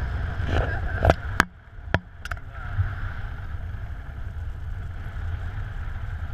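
Wind rushing over the microphone in paraglider flight, a steady low rumble, with a few sharp clicks and knocks in the first couple of seconds.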